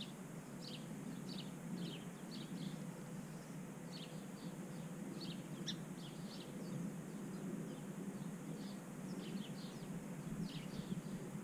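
Small birds chirping: many short, high, downward-sliding chirps in quick succession, over a faint steady low rumble of background noise.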